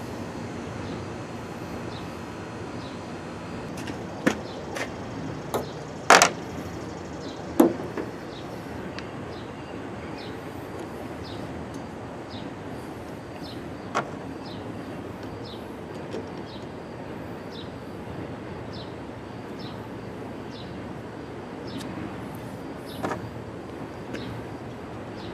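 Scattered sharp clanks and knocks as lights and clamps are handled and fitted on a pickup truck bed, several close together and the loudest about six seconds in, over steady background noise.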